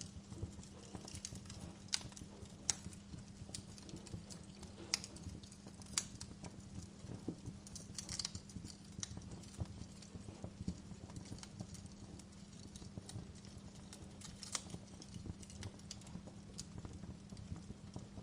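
Wood fire crackling in a fireplace: irregular sharp pops and snaps over a low steady rumble of the burning, with a faint steady low hum underneath.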